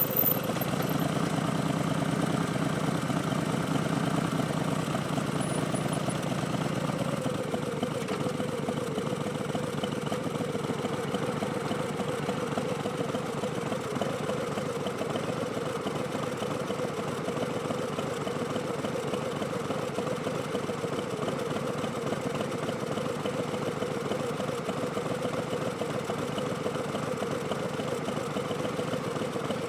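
Harley-Davidson Street Bob's Milwaukee-Eight V-twin running through Vance & Hines Twin Slash slip-on exhausts, a steady engine note. It is a little louder and fuller for the first several seconds, then settles to an even pitch.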